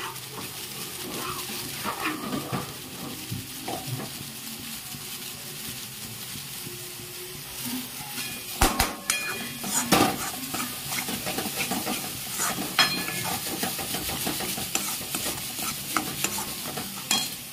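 Onion-and-spice masala sizzling in oil and ghee in a pan while it is stirred, with the spoon clinking and scraping against the pan now and then; the sharpest clinks come about nine and ten seconds in.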